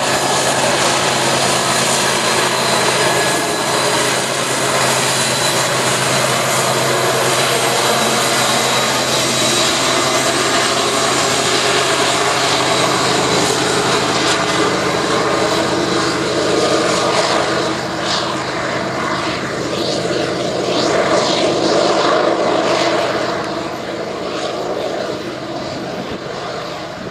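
Union Pacific freight train running by: a steady diesel engine drone over the rolling noise of the cars, with a run of clicks and rattles in the last third, growing quieter near the end.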